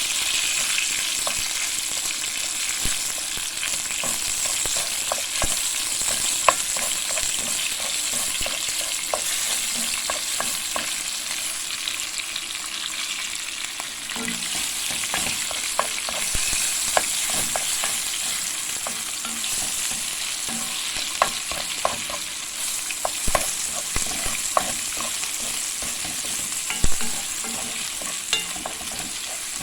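Food frying and sizzling in a pan while it is stirred, with a steady hiss and frequent sharp clicks and taps of the utensil against the pan.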